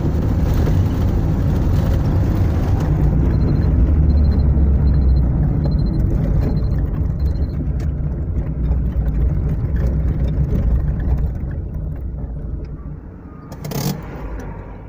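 Car cabin rumble of the engine and road while driving, dying away over the last few seconds as the car slows to a stop. Six short evenly spaced high beeps a few seconds in, and a single knock near the end.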